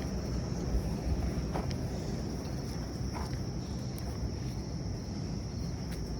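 Outdoor night-time ambience: crickets trilling steadily and high over a low steady rumble, with a few faint taps.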